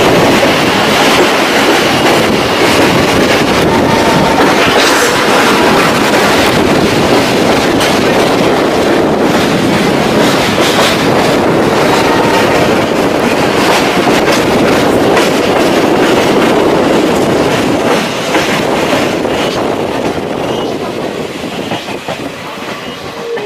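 Passenger train running along the rails, heard from aboard: a steady rattling rail noise that eases off in the last few seconds.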